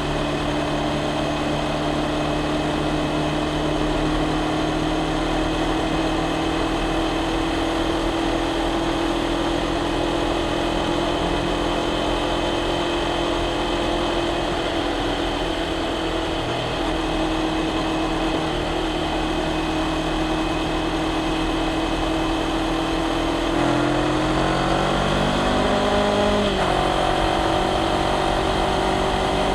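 Honda CBR500R parallel-twin engine and exhaust under way, the note holding steady and creeping slowly up in pitch. Near the end the revs rise quickly as the bike accelerates, then drop sharply at an upshift and settle into a steady, higher note.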